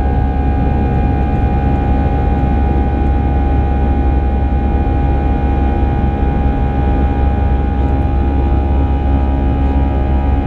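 Airbus A319 jet engines and airflow heard from inside the passenger cabin: a steady, deep drone with several constant whining tones held above it.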